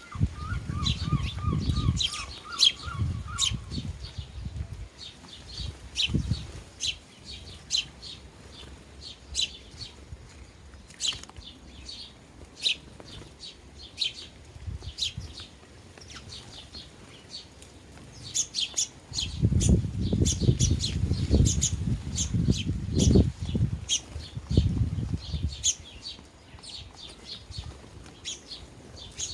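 A flock of sparrows chirping steadily at bird feeders, many short high chirps overlapping, with a brief warbling trill in the first few seconds. Bursts of low buffeting sound come in the first few seconds and again from about twenty seconds in.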